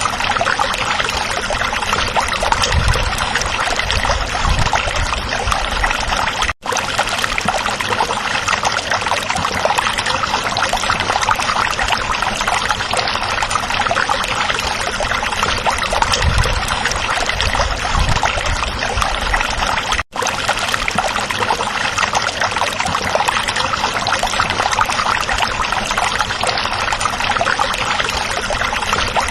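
Small stream babbling and trickling over rocks, a steady dense rush of running water. It cuts out for a split second twice, about a third of the way in and again two-thirds in.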